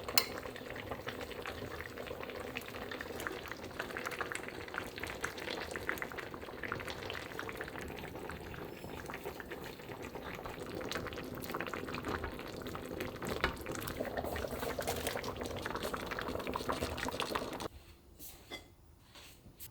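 Liquid bubbling at a boil in a pot or pan, a steady crackling simmer that cuts off suddenly near the end, followed by a few light knocks.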